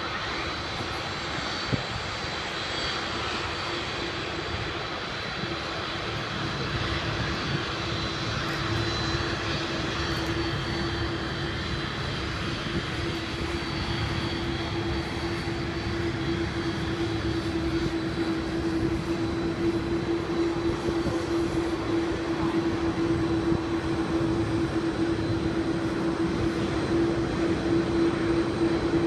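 Jet engines of Air Force One, a Boeing 747, running with a steady hum and a thin high whine, growing gradually louder.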